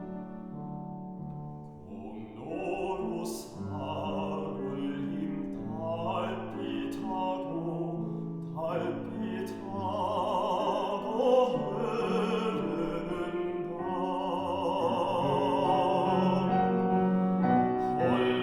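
Classical baritone singing with wide vibrato over piano and string accompaniment; the voice comes in about two seconds in.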